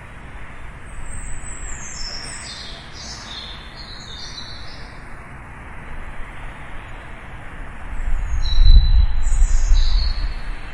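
Small birds chirping in quick high phrases, one group in the first few seconds and another near the end, over a steady background hiss. A low rumble swells up about eight seconds in and is the loudest sound, fading by the end.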